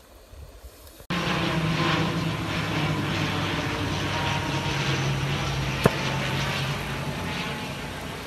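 A steady engine drone with a low hum, starting abruptly about a second in, with one sharp click past the middle.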